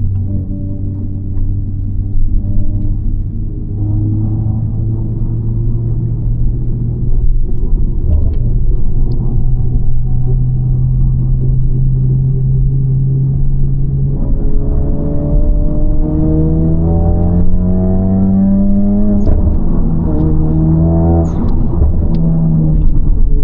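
Honda Civic FL5 Type R's turbocharged 2.0-litre four-cylinder, heard from inside the cabin through an HKS Legamax exhaust with an aftermarket downpipe. It holds steady revs at first, then pulls with rising pitch from about 14 seconds in, dropping sharply at upshifts twice near the end.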